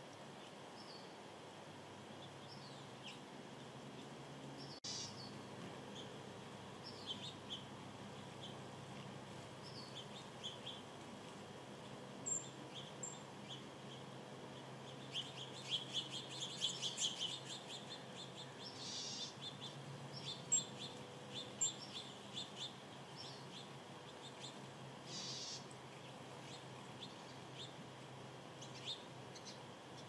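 Small birds chirping faintly: short high chirps scattered throughout, with a quick run of rapid chips about halfway through. A single sharp click about five seconds in, over a faint steady low hum.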